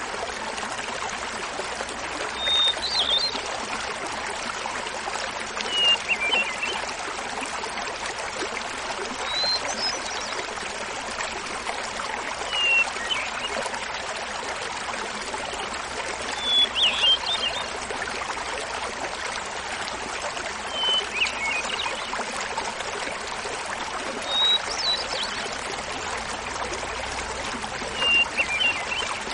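Hermit thrush singing over the steady babble of a small waterfall. Eight short song phrases come every three to four seconds, each a held opening note followed by a fluttering flourish, pitched differently from one phrase to the next.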